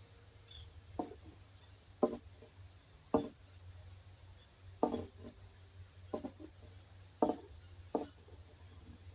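Forest ambience: a steady high insect chorus, with short low knocks roughly once a second that are the loudest sounds.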